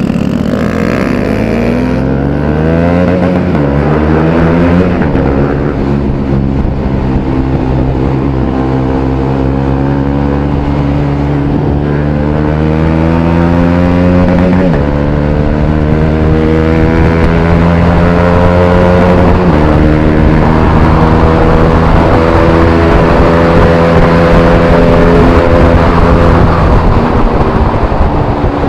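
Single-cylinder Bajaj Pulsar 200 motorcycle with an aftermarket Akrapovic exhaust being ridden hard: the engine pitch climbs over the first few seconds, then holds high with a few sudden drops as it shifts up through the gears.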